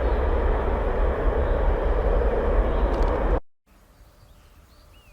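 Airbus A320 jet engines, loud and steady with a deep rumble. The sound cuts off suddenly about three and a half seconds in. Faint outdoor background follows, with a few bird chirps.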